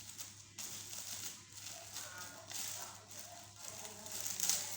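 Plastic packaging rustling and crinkling in irregular bursts as items are unwrapped by hand.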